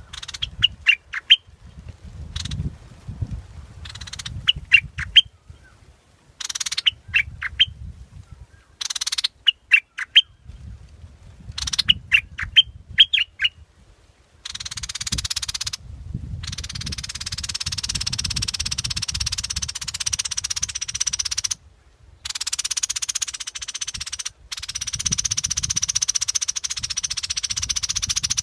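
Yellow bulbul calling: repeated short phrases of three to five quick, bright chirps every couple of seconds. About halfway through, the chirps give way to a steady high hissing buzz that stops briefly a few times.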